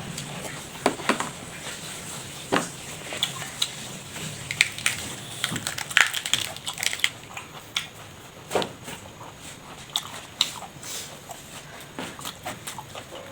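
A person eating close to the microphone: irregular biting, chewing and crunching sounds with sharp mouth clicks, busiest in the first half and thinning out after about seven seconds.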